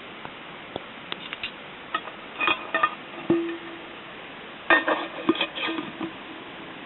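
Metal camp cookware clinking and knocking, pot against utensil, in two short clusters about two and a half and five seconds in, one knock leaving a brief ring. Scattered single small cracks from the campfire.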